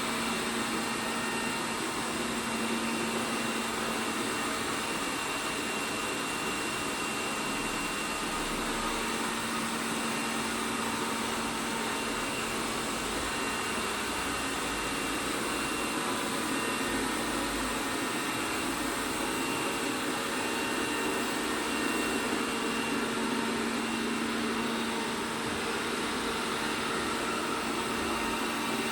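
ELARI SmartBot Lite SBT-002A robot vacuum running: a steady whir of its suction fan and brushes with a constant low hum.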